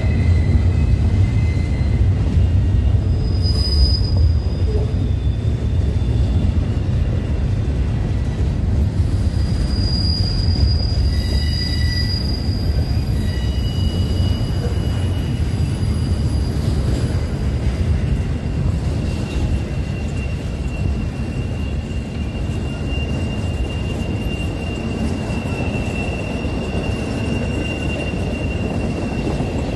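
A train rolling past with a steady, loud low rumble. Its wheels squeal in thin, high tones that come and go, with one squeal held steadily through the second half.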